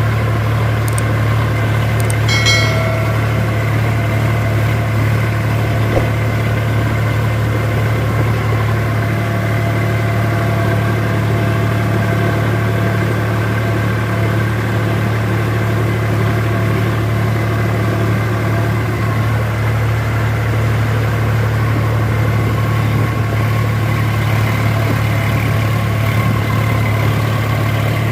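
Sonalika 4×4 tractor's diesel engine running steadily, with a brief high squeak about two and a half seconds in.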